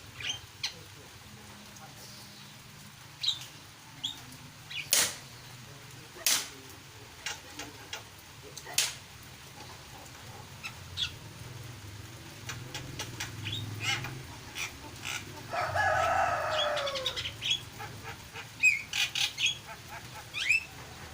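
A jalak (Asian starling) calling: scattered short sharp chirps and clicks, then a louder, longer harsh call that falls in pitch about three-quarters of the way through, followed by a quick run of chirps near the end.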